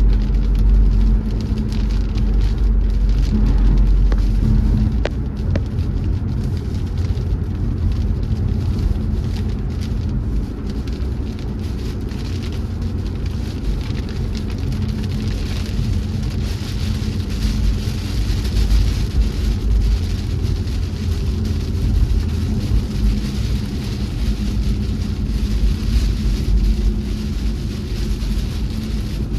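BMW car driving, heard from inside the cabin: a steady low road and engine rumble with tyres hissing on a wet, snowy road, the hiss growing stronger about halfway through.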